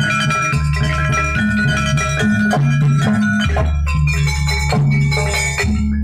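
Live jaranan gamelan music: tuned metal percussion playing a repeating melody over drums and deep gong-like bass notes.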